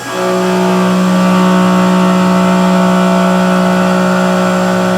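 CNC mill's end mill cutting into aluminum on a roughing pass. The cut starts just after the beginning with a sudden rise, then holds a loud, steady pitched tone with overtones.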